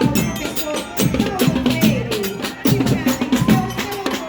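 School marching band playing: rapid, steady drum strokes with a melody carried over them.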